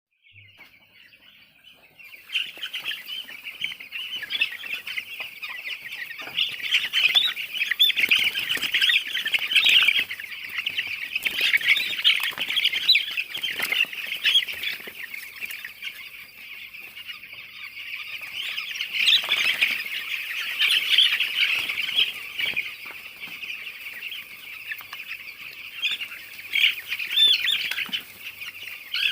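A shed full of eleven-day-old chicks peeping all together: a dense, continuous chorus of high chirps. It swells up about two seconds in.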